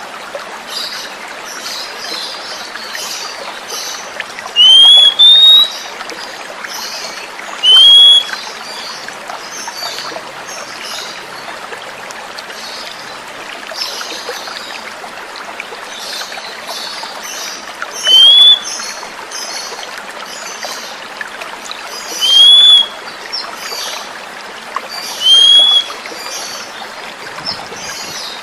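Oriental magpie-robin (kacer) giving short, clear whistled notes that rise then fall, a handful of times with long gaps between, over the steady sound of running water and fainter high chirps.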